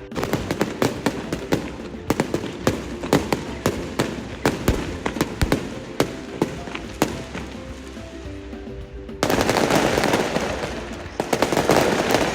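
Fireworks display: a rapid, irregular series of sharp bangs, then a dense crackling from about three-quarters of the way through. Music plays along underneath.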